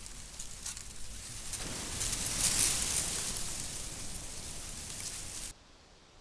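Outdoor ambience: a rushing hiss with fine crackles that swells about two seconds in, then cuts off suddenly near the end.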